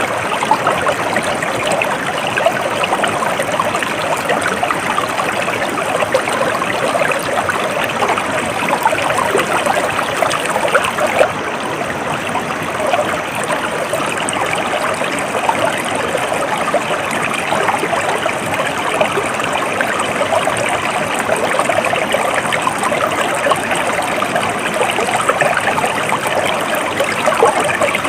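Stream water flowing steadily, a dense, even splashing with no let-up.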